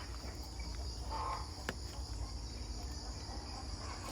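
Insects chirring steadily in a high, even drone over a faint low rumble, with one sharp click a little under two seconds in.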